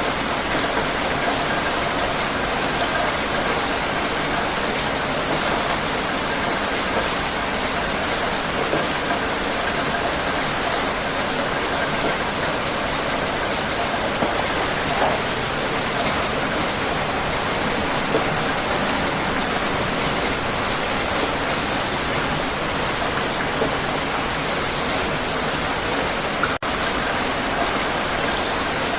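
Heavy rain falling steadily on a surface, a dense even hiss with scattered drop splashes. The sound cuts out for an instant near the end.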